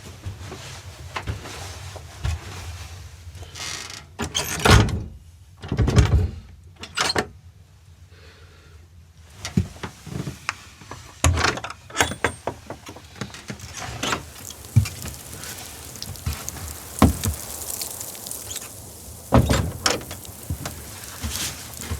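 A run of irregular knocks and thumps over a faint steady background, with heavy thuds about five, six and seven seconds in and again near the end.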